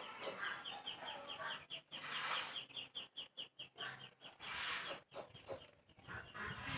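Birds calling: a fast run of short, high peeps, about five a second, that stops about four seconds in.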